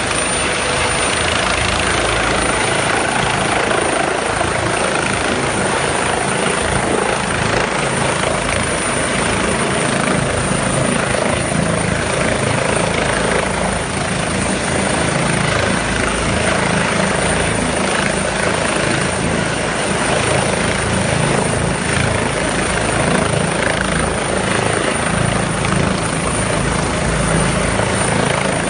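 Helicopter running close by, a steady loud rotor and engine noise.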